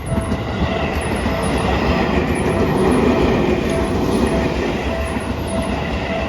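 Seibu Railway 20000 series electric train running over a level crossing, its wheels and running gear loud and growing to a peak about halfway through. A crossing warning bell keeps ringing in a repeating pattern underneath.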